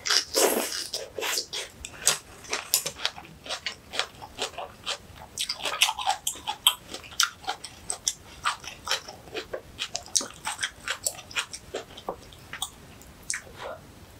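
Close-miked eating of spicy young-radish (yeolmu) kimchi and rice: chewing with wet mouth clicks and crisp crunches, several a second, after a short slurp in the first second as the greens go into the mouth.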